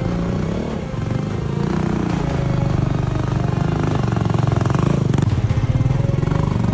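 A vehicle engine running steadily on an off-road mountain track. Its even firing pulses grow more distinct about five seconds in.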